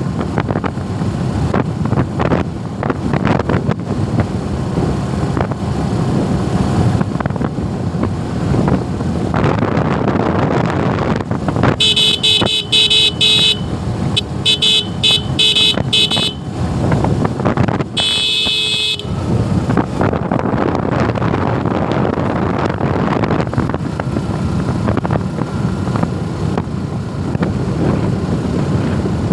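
Wind rush and road noise of a Suzuki Gixxer motorcycle being ridden. Around the middle a vehicle horn sounds in three rapid pulsing runs of honks, the last one short.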